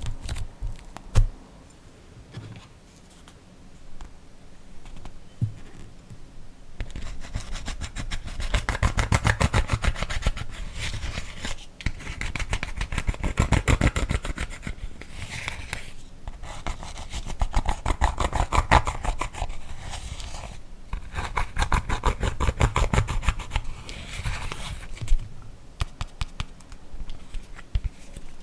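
Slime being kneaded and pressed by hand, giving off dense rapid crackling clicks and pops. These start after a quieter stretch of a few separate clicks and pause briefly a few times.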